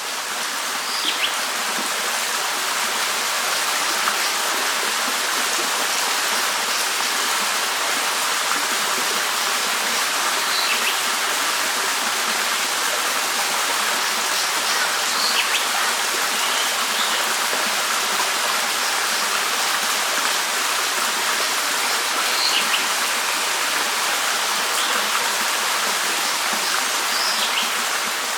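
Steady rushing of flowing water, with short high bird chirps every few seconds. It fades in at the start and fades out near the end.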